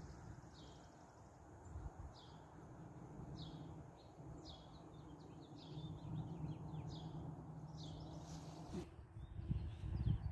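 A songbird calling over and over, a short falling chirp about once a second, over a low background rumble. Near the end a brief rustle and a few low thumps cover it.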